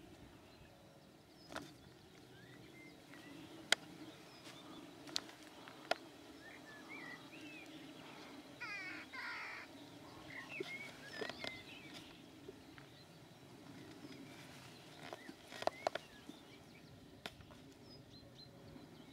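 Birds calling and chirping in the hedgerow, with a busier run of short chirps and trills in the middle, over a quiet steady outdoor background. Several sharp clicks stand out, the loudest about four seconds in and a small cluster near the end.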